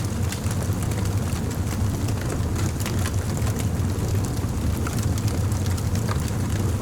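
Campfire burning: a steady low rumble of flames with frequent small, sharp crackles and pops of burning wood.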